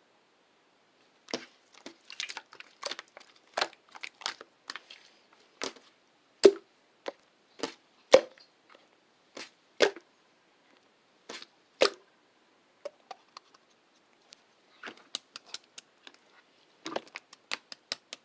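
A run of irregular sharp clicks and taps from small hard objects being handled, some short flurries and some single louder knocks, thickening near the end.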